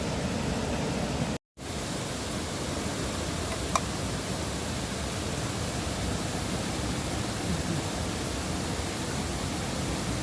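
River water rushing steadily, broken by a split-second gap about a second and a half in, with one short, sharp tick near four seconds.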